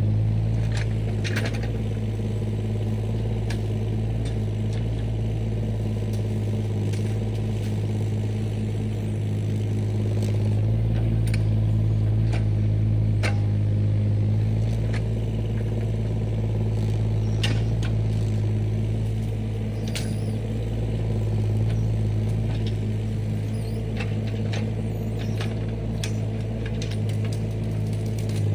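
Heavy equipment's engine running steadily at a constant speed, with scattered light clanks and rattles.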